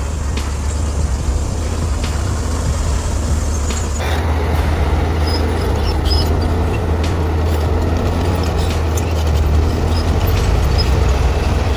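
Heavy diesel engine of earth-moving machinery running with a steady low drone, the engine sound changing about four seconds in.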